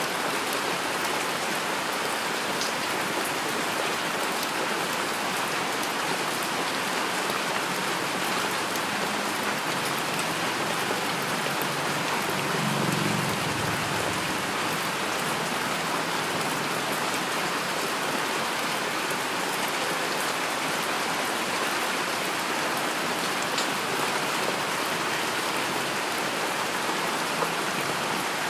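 Steady heavy rain falling, an even hiss of drops pattering on surfaces, with a brief low rumble near the middle.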